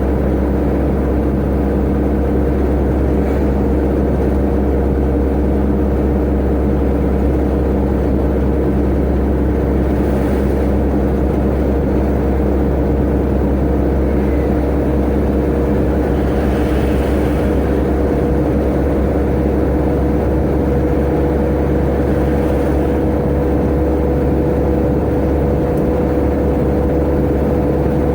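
Tata Ace mini-truck driving at top speed, heard from inside the cab: a steady engine drone with road noise, its whine creeping slightly higher in pitch as the speed holds.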